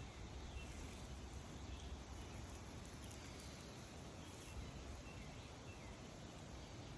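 Faint outdoor ambience: a steady hiss with a low rumble underneath, and a few short, faint bird chirps scattered through.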